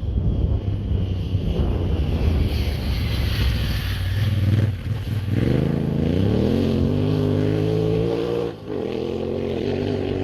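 Adventure motorcycle engine running under way, with wind noise on the microphone. About halfway through the engine note climbs as it accelerates, dips briefly near the end as at a gear change, then holds steady.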